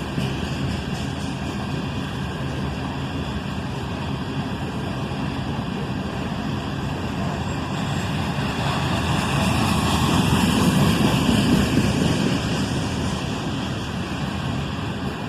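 Cars of a loaded iron ore freight train rolling past: a steady rumble of steel wheels on rail that swells louder about ten seconds in.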